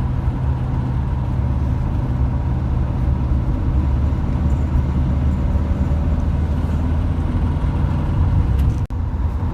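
Volkswagen bus with a newly installed engine, driven at road speed: a steady low engine drone with road noise.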